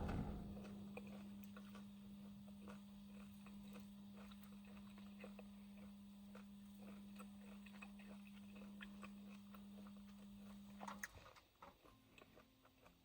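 A faint, steady low hum that cuts off suddenly about eleven seconds in, with faint small clicks and taps scattered throughout.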